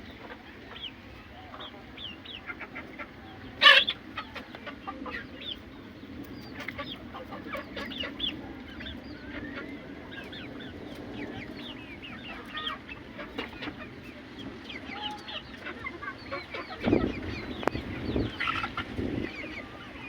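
A flock of Aseel chickens clucking, with many short calls overlapping. One loud, sharp sound stands out about four seconds in, and a few low thumps come near the end.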